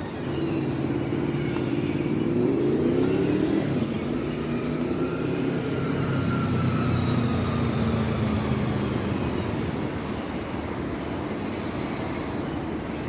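A motor vehicle's engine passing by, its pitch rising for the first few seconds and then falling slowly as the sound fades.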